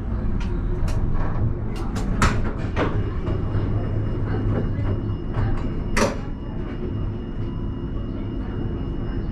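Alstom Citadis tram heard from the driver's cab: a steady low rumble broken by several sharp clicks and knocks, the strongest about two and six seconds in. From about a third of the way in, faint steady high tones join it.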